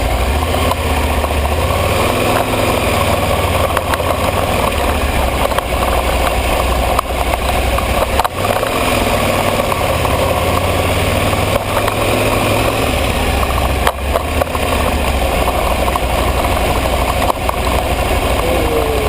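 Aprilia ETV 1000 Caponord's V-twin engine running steadily as the motorcycle is ridden, under an even haze of wind and road noise.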